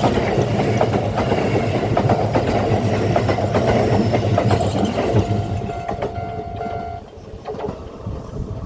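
A train running past at a level crossing, its wheels clattering rhythmically over the rail joints, the sound fading away after about five seconds. A steady high tone with overtones sounds for about two seconds as the clatter dies.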